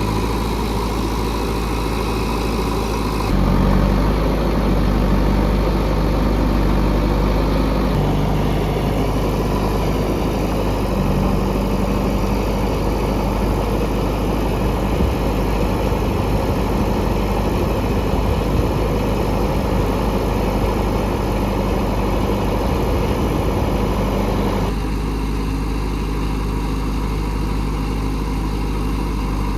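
Diesel engine of heavy earthmoving machinery running steadily at low revs. The sound changes abruptly, growing louder and rougher about three seconds in and easing back near the end.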